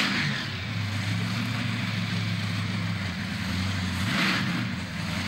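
Car engine held at fairly steady revs through a burnout, over a wash of noise, with a brief rush of hiss about four seconds in.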